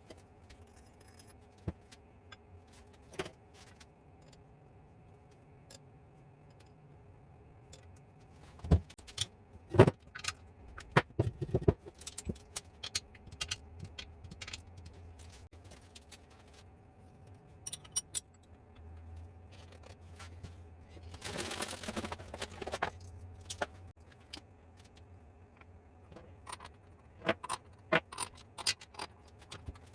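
Scattered metallic clinks, taps and knocks of hand tools and engine parts being handled during an engine overhaul, busiest about a third of the way in and again near the end, with a short burst of scraping about two-thirds through over a low steady hum.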